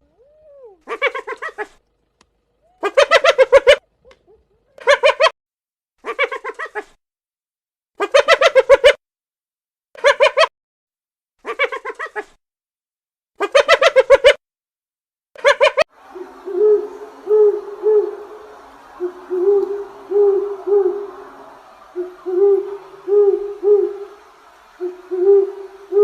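Owl calls: first a series of short, separate, rasping calls about a second apart, then, from about 16 seconds in, repeated low hoots in groups of three or four against a faint background hiss.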